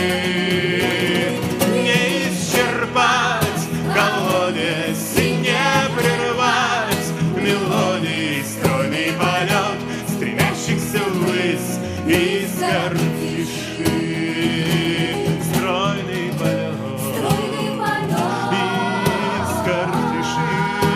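A song: a man singing in Russian with vibrato over steady instrumental accompaniment.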